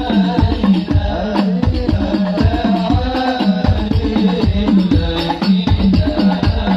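Hadroh-style percussion music: deep drum strokes repeating about two to three times a second, with lighter hand-drum hits and a sustained melodic line above them.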